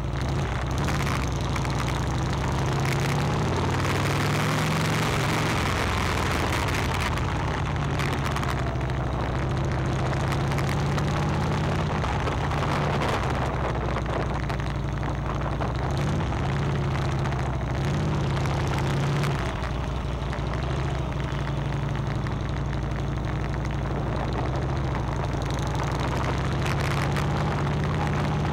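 Motorcycle engine running steadily under way, its pitch shifting a little, with a rush of wind and road noise over it.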